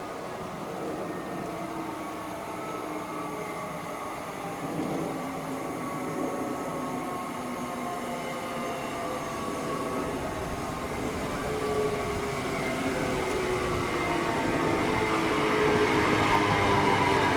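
A train approaching and growing steadily louder, with a whine of several tones slowly falling in pitch over a rumble of wheels on rails.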